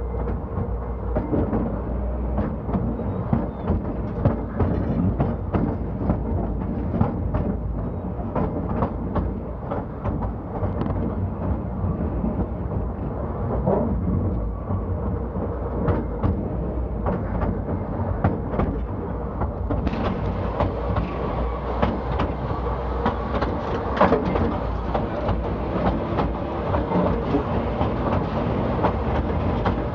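Colliery train running on rails: a steady rumble with frequent clanks and clicks from the wheels and running gear.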